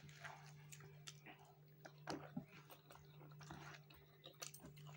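Faint chewing and soft mouth sounds of a person eating rice and curry by hand, a little louder about two seconds in, over a low steady hum.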